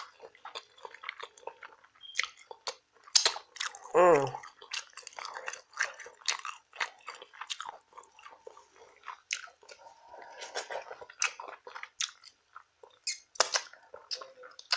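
Close-miked wet chewing and lip-smacking, with many short clicks and crunches as food is bitten and chewed. About four seconds in, a hummed 'mmm' of enjoyment falls in pitch.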